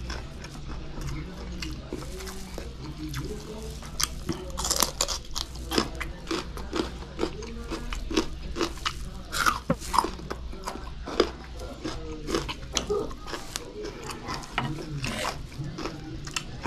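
Close-up crunching and chewing of raw pinakbet vegetables with rice, with many sharp, irregular crunches.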